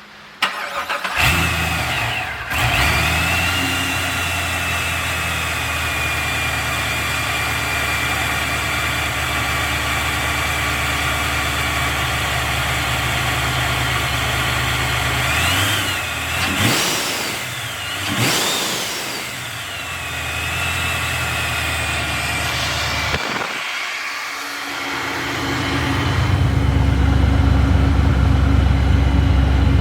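Supercharged 6.2 L LT1 V8 with a ProCharger P-1SC starting and idling, a steady high supercharger whine over the engine note. Twice past the middle it is revved, the whine rising and falling with the revs, and near the end the engine sound grows louder and deeper.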